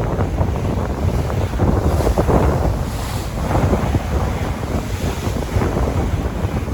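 Sea waves washing in a steady surge of noise, with wind buffeting the microphone and filling the low end.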